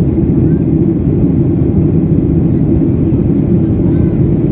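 Steady, loud cabin noise of a Boeing 737-800 in flight, heard from inside the passenger cabin. It is a deep, even rumble of its CFM56 engines and the airflow over the fuselage.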